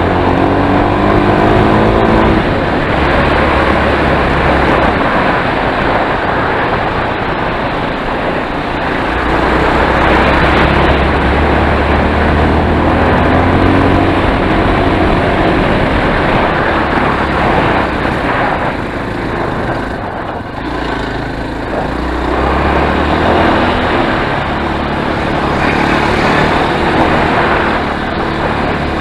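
Enduro motorcycle engine running under way, its pitch rising and falling with the throttle.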